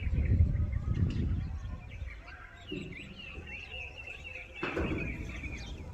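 Birds chirping, with a held high note in the second half, over a low rumble that is strongest early on; a short rough noise burst comes near the end.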